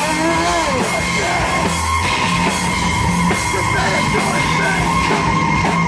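Loud live heavy rock or noise music played through a PA, dense and distorted, with a steady high whine running through it. There are yelled vocals in the first second or so.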